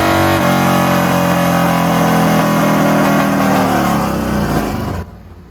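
2023 Harley-Davidson CVO Road Glide's Milwaukee-Eight 121 V-twin running through a D&D Billet Cat 2-into-1 exhaust at the top of a fourth-gear wide-open-throttle dyno pull. Under half a second in the throttle closes, and the engine note falls steadily as it winds down on the dyno. About five seconds in it drops away sharply to a low level.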